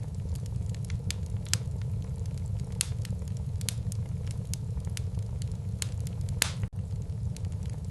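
Wood fire burning in a fireplace: a steady low rumble of flames with frequent sharp crackles and pops, one louder pop about six and a half seconds in.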